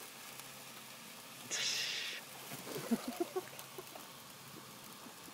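Raw bacon laid on a hot engine exhaust manifold, sizzling in a sudden hiss about a second and a half in that lasts under a second, followed by a few short pops and squeaks.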